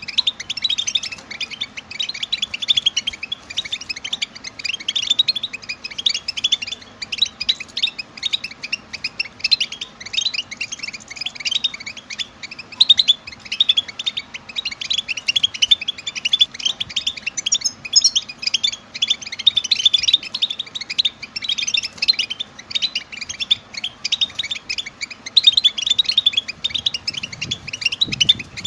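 Several European goldfinches twittering together in an unbroken stream of quick, high chirps and trills. These are the excited mating and readiness calls played to stir male goldfinches into song.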